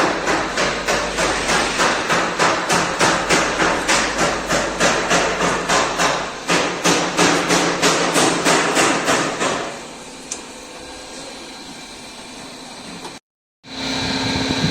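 Rapid, evenly spaced hammer blows, about three to four a second, stopping about ten seconds in. After a short break the sound cuts to a steady machine hum near the end.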